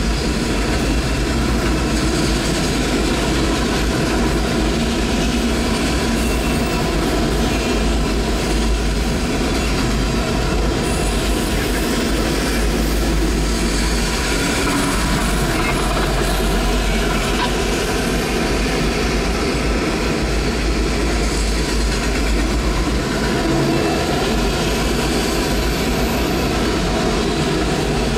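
Railroad cars of a passing train rolling by on the rails: steady, loud wheel-on-rail noise.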